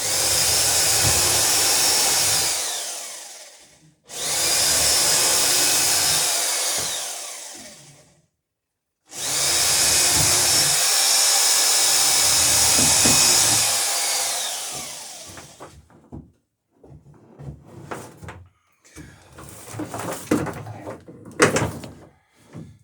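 An electric drill run three times for a few seconds each, its motor whining down after each stop. Irregular knocks and clicks follow near the end.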